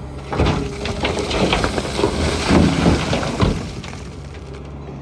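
A backhoe bucket tips a load of mud and stones into a steel dump truck body: a loud, rough crashing and clattering that lasts about three seconds, over the steady running of the diesel engine.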